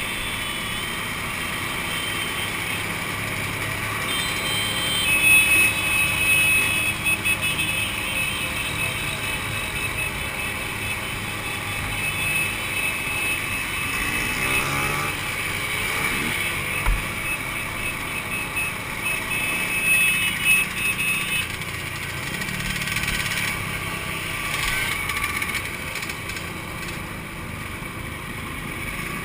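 Two-stroke motorcycle engines running, with a high whine and louder surges about five seconds in and again near twenty seconds.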